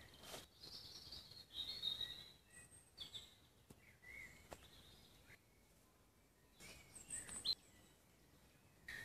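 Faint woodland birdsong: scattered short chirps and calls, with a couple of stretches of near silence between them.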